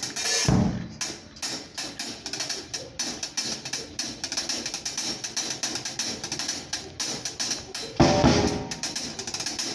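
Acoustic drum kit played solo, with no backing band audible. It keeps up a steady groove of quick strokes, with two heavy accented hits, one about half a second in and one near the end.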